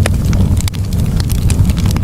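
Campfire burning, with frequent irregular crackles and pops of wood over a steady low rumble.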